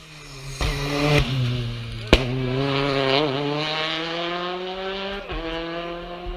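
Rally car engine revving hard as the car drives through a special stage, its pitch climbing steadily under acceleration, with a single sharp bang about two seconds in and a break in the note near the end as it lifts or shifts.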